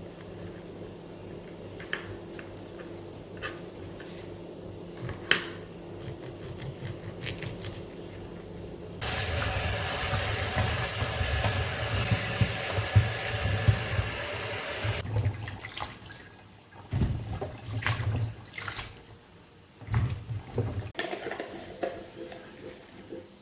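Water running hard from a kitchen tap for about six seconds, starting and stopping suddenly, with scattered light clicks and knocks of kitchenware before and after.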